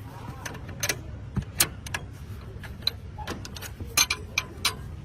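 A string of sharp, irregular clicks and knocks, the loudest about a second and a half in and again about four seconds in, over a steady low hum.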